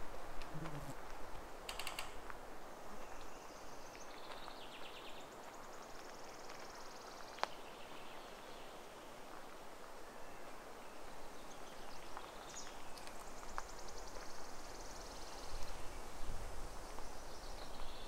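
Several birds singing: high, rapid trills and calls that come and go, over a steady faint hiss, with one sharp click about seven seconds in.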